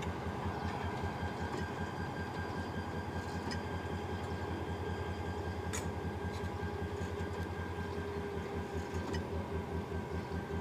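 Bangladesh Railway diesel-hauled passenger train rolling slowly past: a steady low rumble with a rapid even pulsing and a faint steady whine. A few sharp clicks come through, the clearest about halfway.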